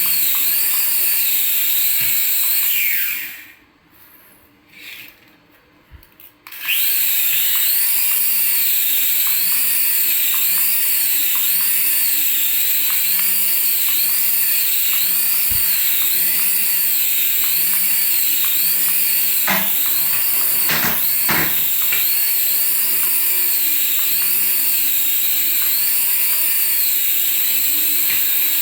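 A radio-controlled toy's small electric motor running with a high, steady whine that wavers about once a second. About three seconds in it winds down and stops, then starts again a few seconds later. A few clicks follow near the middle.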